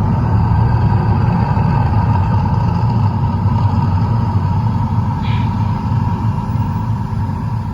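Loud, steady deep rumble from the Mirage volcano show's eruption.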